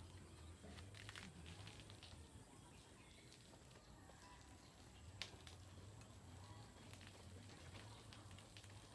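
Near silence: a faint low hum with a few soft clicks.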